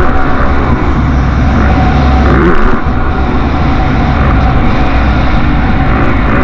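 Motocross bikes racing on the track, their engines running loud and revving up and down.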